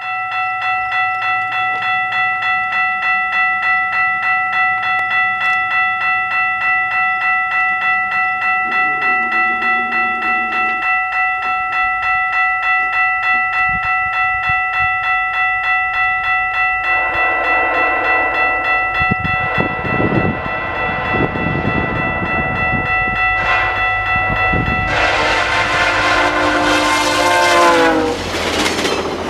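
Level-crossing warning bell ringing steadily, about two strokes a second. A VIA Rail passenger train's horn sounds faintly about nine seconds in, then the train's rumble builds from about seventeen seconds. Near the end the horn blows loud as the train passes, its pitch dropping as it goes by, over the clatter of wheels on rail.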